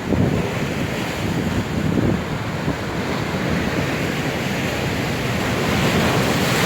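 Stormy sea surf breaking on the shore, a continuous rushing hiss that swells toward the end, with strong wind gusting and buffeting the microphone.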